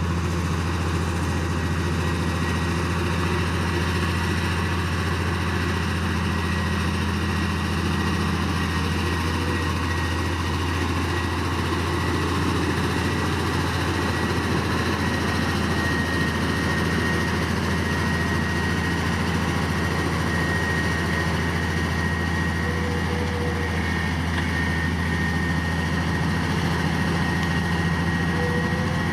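Heavy diesel engine of earthmoving machinery running steadily with a deep, even drone, a thin steady high whine over it.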